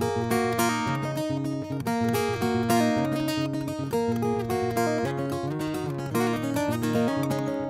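Acoustic guitar strummed in a steady rhythm during a live song.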